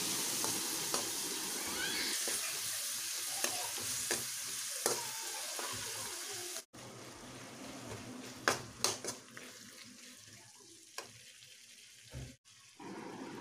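Beef pieces frying in spiced masala in a metal pan, a steady sizzle while a metal spoon stirs them in. The sizzle cuts off suddenly about halfway through, leaving quieter stirring with a few sharp clinks of the spoon on the pan.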